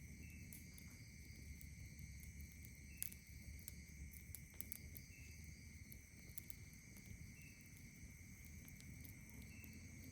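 Faint campfire crackling, a scattering of sharp pops with a louder one about three seconds in, over a steady chorus of night insects. One short chirp repeats about every two seconds.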